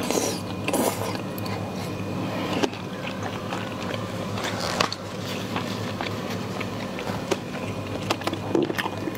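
Close-up chewing and mouth sounds of a person eating spicy food, with scattered small clicks and wet smacks over a steady low hum.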